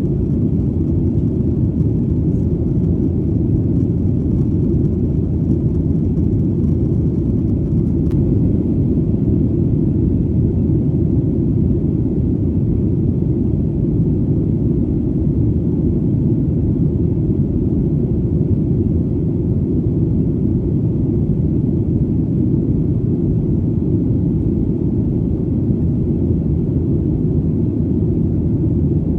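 Steady, low, even rumble of an airplane in flight, the deep engine and air noise unchanging throughout.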